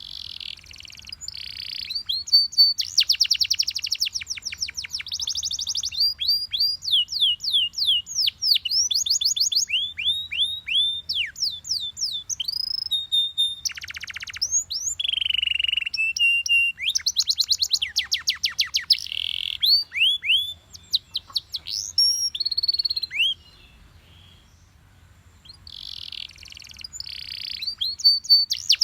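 A yellow Belgian canary singing long, fast song phrases of rapid rolling trills and sweeping whistled notes. Near the end it stops for about two seconds, then starts again.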